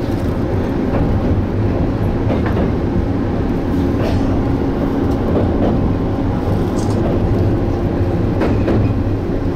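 Electric train heard from inside the car while running: a steady motor and running hum, with the wheels clicking over rail joints now and then.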